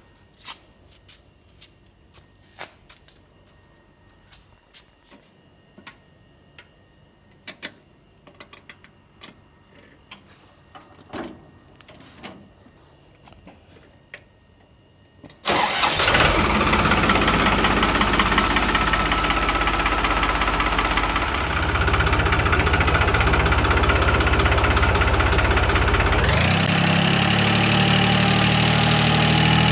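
About fifteen seconds of quiet with scattered light clicks and knocks, then a John Deere 5060E tractor's diesel engine fires up suddenly and runs steadily at idle. Near the end its engine speed is raised to a higher steady run.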